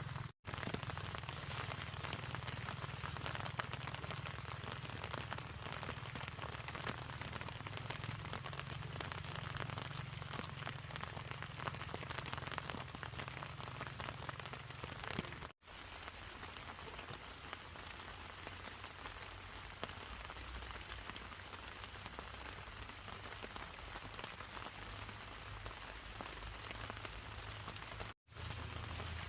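Steady rain falling and pattering on surfaces. It cuts out for an instant three times: about half a second in, about halfway through, and near the end.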